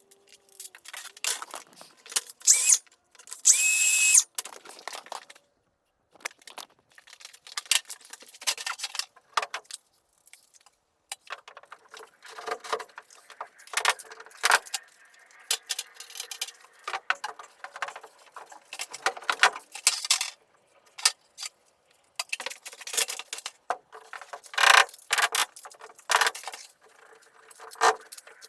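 Carpentry work: irregular clattering and knocks of tools and timber, with a brief, loud power-tool run about four seconds in.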